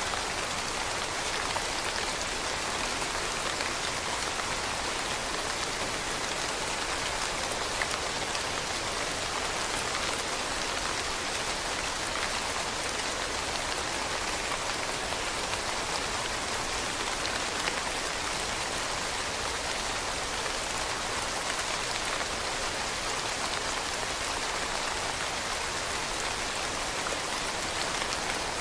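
Steady rain falling on leaves: an even hiss of many small drops pattering, with no lulls or gusts.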